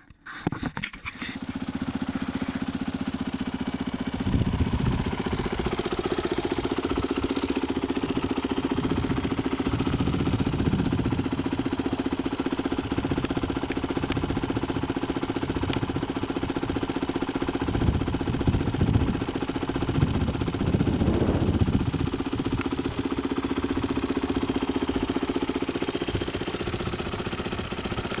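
Honda XR250's single-cylinder four-stroke engine starting and catching within about a second, then idling through a twin exhaust of two CRF250R mufflers, with a handful of short throttle blips.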